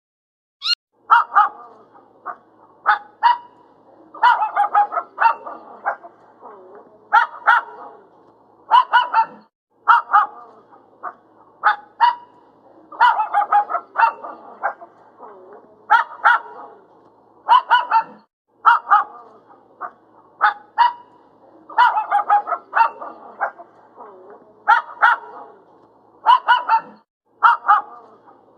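Dog barking repeatedly, short sharp barks about once a second, sometimes two or three in quick succession.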